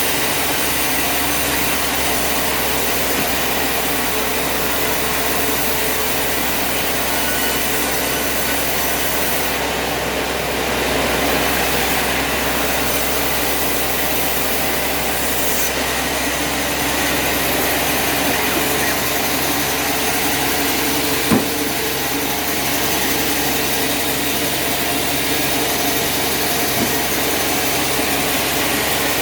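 Sawmill machinery running steadily, with a single sharp knock about 21 seconds in.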